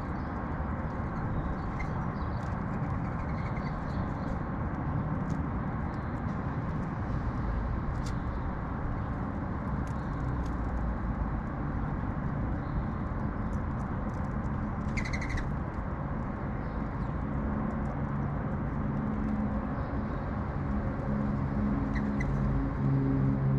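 Steady urban rumble with a few short sparrow chirps, one about two seconds in, a clearer one around the middle, and another near the end. A low engine drone grows louder over the last few seconds.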